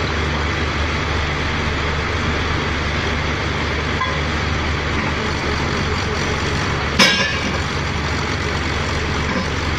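Pneumatic drilling rig machinery running steadily: a low engine drone under an even hiss. A single sharp clank with a brief ring about seven seconds in.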